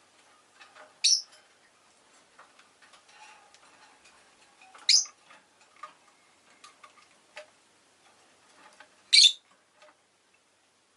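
Peach-faced lovebird giving three sharp, high chirps about four seconds apart, with faint ticking clicks in between.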